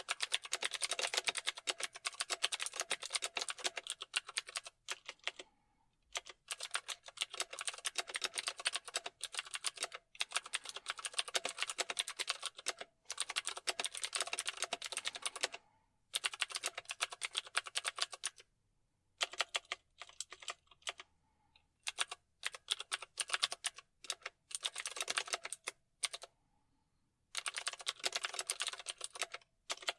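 Typing on a computer keyboard: runs of rapid keystrokes several seconds long, broken by brief pauses, the runs turning shorter and choppier in the second half.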